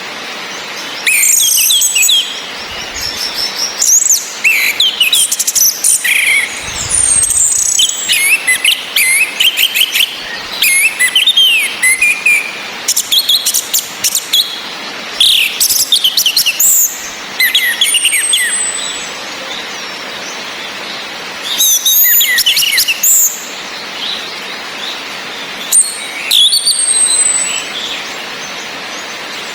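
Orange-headed thrushes calling and singing in repeated bursts: thin high whistles that slide downward, mixed with busy, varied song phrases. Under them runs a steady hiss of rain.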